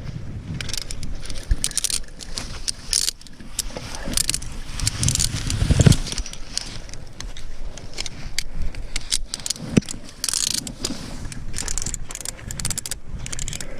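A hiker on the move on a snowy rock trail: irregular clicking, crackling and jangling from steps and gear, with gusts of wind buffeting the microphone, the strongest about six seconds in.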